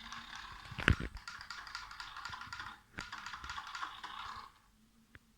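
Small remote-control toy car driving across a hard floor: a fast clattering whir from its little motor and wheels, with a sharp knock about a second in. It stops a little before the end.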